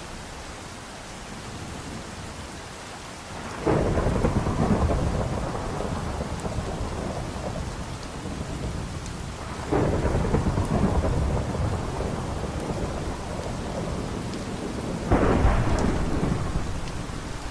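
Steady rain during a thunderstorm, with three rolls of thunder about six seconds apart. Each roll starts suddenly and rumbles away over several seconds.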